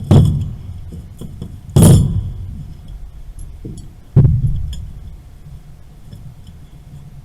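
Metal clanks from work on valves and pipe fittings: three loud strikes about two seconds apart, each with a short ringing tail, and lighter clinks between them.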